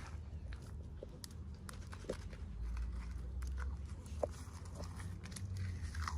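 Toy packaging being handled and opened: scattered light clicks, taps and crinkles of plastic and paper over a low steady hum.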